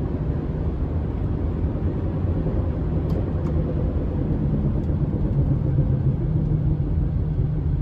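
Honda Odyssey minivan on the move: a steady low road rumble with a hum in it, which the mechanic is pretty sure is a worn wheel hub bearing assembly rather than grinding brakes. The hum grows a little stronger about five seconds in.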